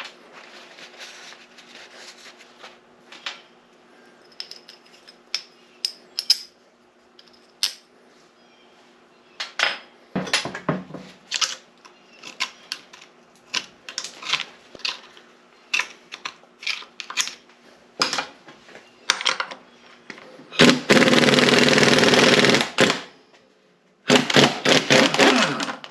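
Metal transfer-case parts and hand tools clinking and knocking on a workbench, then a power tool running in two loud bursts of about two seconds each near the end.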